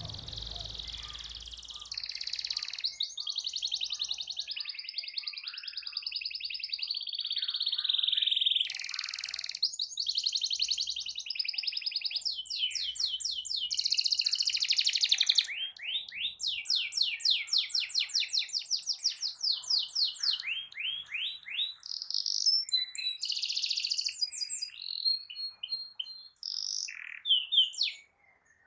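Domestic canary singing a long, unbroken song of fast trills and rolling runs of rapid repeated notes, pausing only briefly near the end.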